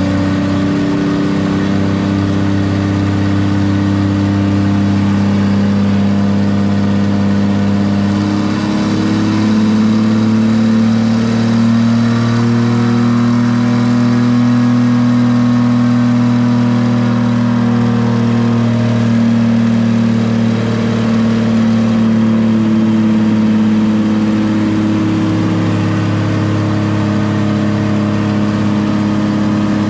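Turbocharged Jeep Cherokee XJ engine running steadily on a chassis dyno. Its pitch climbs slowly about a third of the way in, holds, then eases back down.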